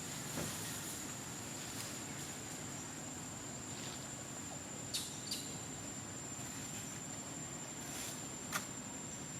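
Outdoor ambience with a steady, high-pitched insect drone, broken by a few short, sharp snaps or clicks, the sharpest near the end.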